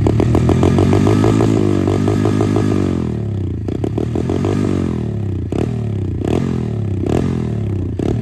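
Ultra 125cc pit bike's single-cylinder engine running at the exhaust, revved over the first few seconds and then settling to a steadier idle with a faint regular tick.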